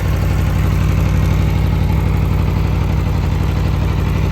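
Aprilia Tuono V4 Factory's V4 engine idling steadily, with a fast, even low pulse.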